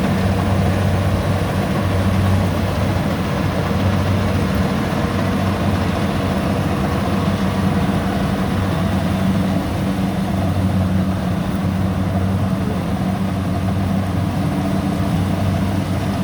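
Combine harvester engine running steadily at a constant low hum, with no change in speed.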